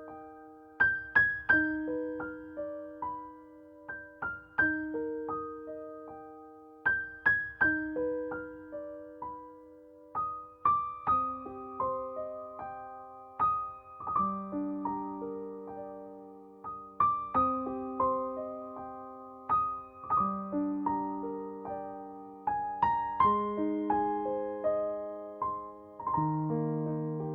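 Slow, gentle solo piano music: single struck notes and soft chords that ring and fade, in repeating phrases.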